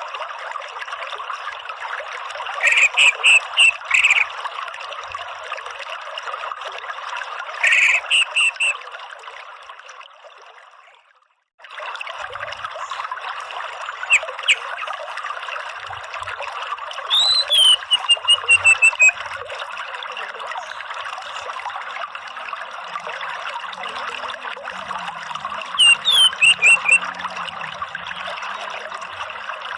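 Orange-headed thrush calling in short clusters of rapid high notes, one a falling run of notes, over a steady trickle of running water. The water fades out about a third of the way in and cuts back in abruptly.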